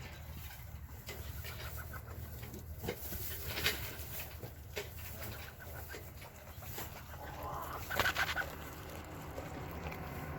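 A chicken clucking in short, scattered calls, with a louder run of calls about eight seconds in, over a steady low rumble.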